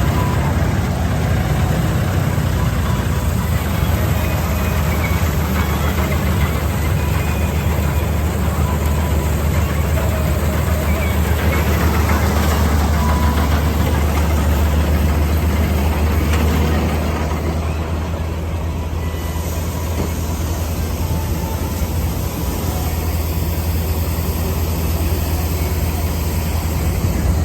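Heavy tractor engine running steadily with a deep, low hum, easing off a little for a few seconds about two-thirds of the way through.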